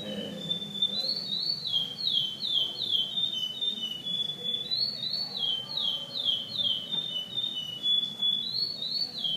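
Curió (chestnut-bellied seed finch) singing its loud whistled song: runs of slurred notes that swoop up and drop back, about two or three a second, joined by longer held notes, the phrase repeated three times.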